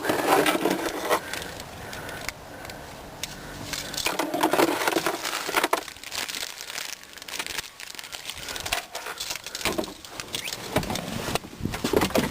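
Irregular rustling and knocking handling noises with a few sharp clicks, in bursts of a second or so.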